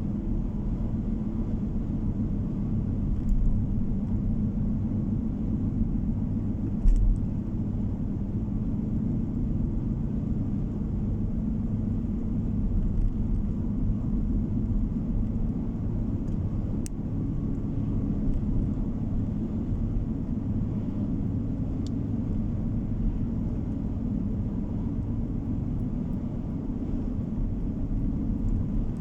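Steady low rumble of a car driving, the road and engine noise heard from inside the cabin, with a brief bump about seven seconds in.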